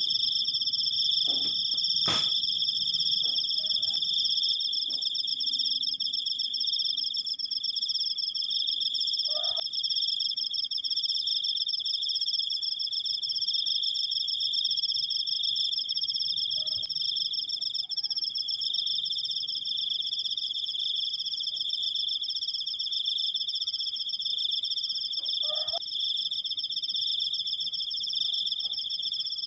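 Cricket trilling without a break, a long high-pitched 'krikkkkkk' made of rapid, even pulses. A single sharp click comes about two seconds in.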